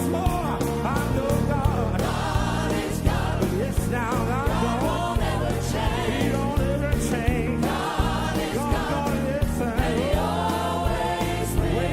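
Gospel worship song: a choir and singers with a live band, wavering vocal runs over bass and drums.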